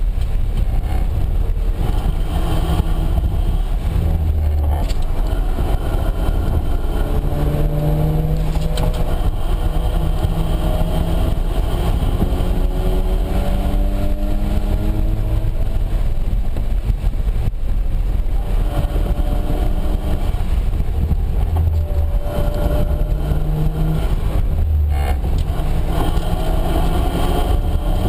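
Mazda RX-7's turbocharged two-rotor rotary engine under hard driving, heard from inside the cabin: its note climbs in pitch over several seconds and drops back lower, over and over as the car accelerates and changes gear, with steady road and wind noise underneath.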